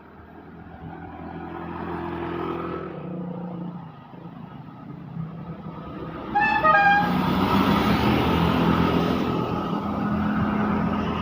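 Heavy road vehicles passing. An engine grows louder and fades by about four seconds in. About six seconds in, a quick run of short, stepped musical horn notes sounds as another heavy vehicle goes by, the loudest part.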